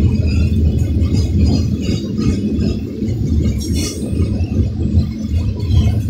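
Coal train hopper cars rolling past: a steady low rumble of steel wheels on the rails with scattered metallic clinks and faint squeals, and one sharper metallic clank about four seconds in.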